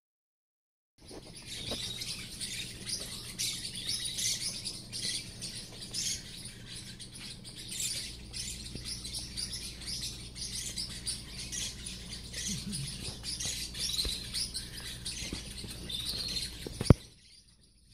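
Parrotlets chirping in a rapid, continuous stream of short high chirps. A single sharp click sounds near the end.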